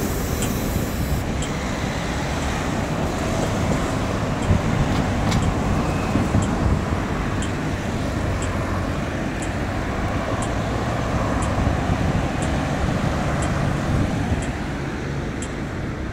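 Steady city road traffic noise: a continuous rumble of passing vehicles, with faint light ticks about once a second.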